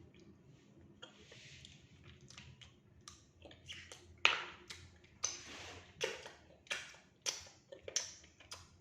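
Close-miked eating sounds: wet mouth smacks and clicks while chewing, in a steady rhythm of about one and a half a second, starting a few seconds in.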